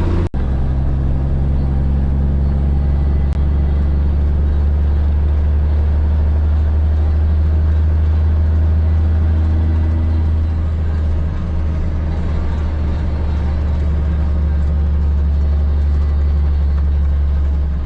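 Kenworth K100 cabover's Cummins 855 Big Cam diesel running at a steady cruise, a loud, even low drone. A brief dropout comes just after the start.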